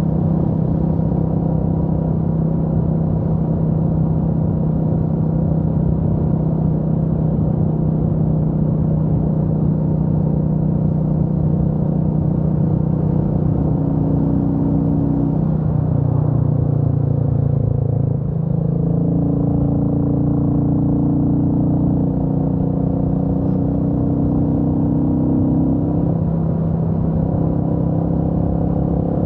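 Royal Enfield Meteor 350's single-cylinder engine running steadily under way on the road. About eighteen seconds in there is one short break in the engine note, after which it settles at a new steady note.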